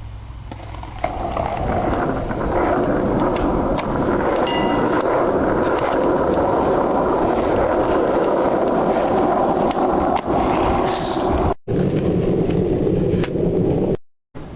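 Skateboard wheels rolling steadily, with a brief squeak a few seconds in. The sound drops out abruptly twice near the end.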